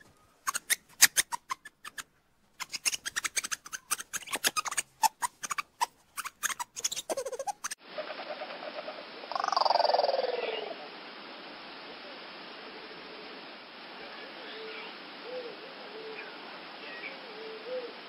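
Animal calls: rapid clicking chatter, then a single loud call falling in pitch followed by soft short low calls over a steady hiss.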